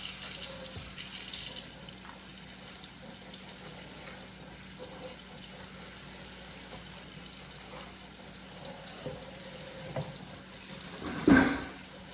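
Kitchen sink faucet running cold water over drained spaghetti noodles, a steady stream rinsing them to stop the cooking. A brief loud sound about a second before the end.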